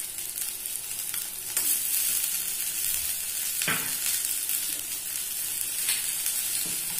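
Oil sizzling steadily in a steel kadai as chopped onion fries with a mashed potato and vegetable filling, a little louder after about a second and a half. A few faint short clicks sound over it.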